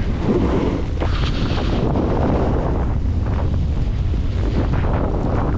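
Heavy wind buffeting the microphone: a loud, steady rumbling rush.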